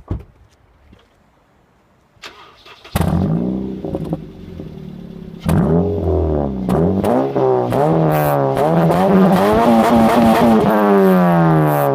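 Honda Civic FD1's 1.8-litre four-cylinder heard through its stock muffler with the end piece made straight-through: the engine starts about three seconds in and idles, then from about five and a half seconds in is revved again and again, the pitch rising and falling with each blip.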